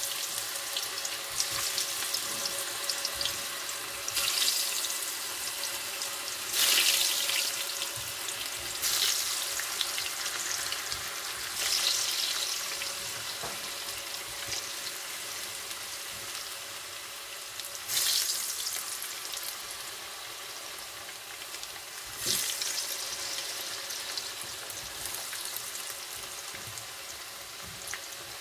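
Seasoned green banana (plantain) pieces frying in shallow hot oil in a pan: a steady sizzle that flares up louder each time another piece is slipped into the oil, several times.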